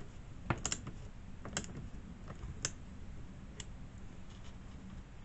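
A few light, irregular clicks and taps of chainsaw parts and hand tools being handled during reassembly, about five in all, most of them in the first three seconds.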